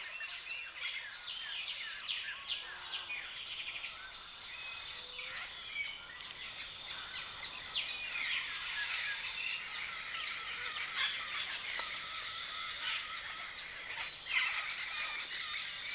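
A flock of parrots calling: many overlapping short squawks and chirps, with a steady high-pitched tone underneath.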